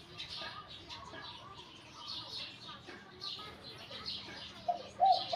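Small birds chirping high and repeatedly. Near the end a spotted dove starts its cooing song with two short, low coo notes, louder than the chirping.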